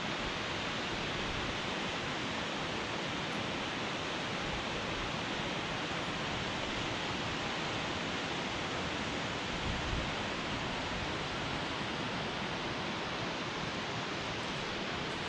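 Steady, even rush of Vincent Creek Falls and its creek heard from high above on a bridge.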